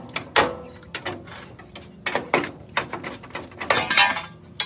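Irregular metal knocks and clanks, about a dozen in all, bunching into a quick run with a brief ring near the end, as parts and tools are handled on a truck chassis.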